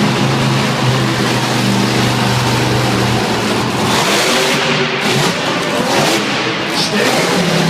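Bigfoot monster truck's engine running loud at a steady pitch, then revving hard about three seconds in.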